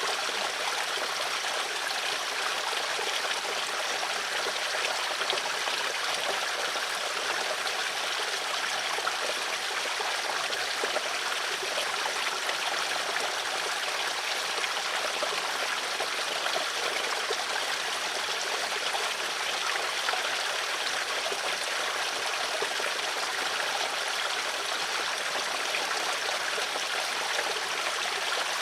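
Water flowing steadily in a stream, an even rushing and trickling that does not change.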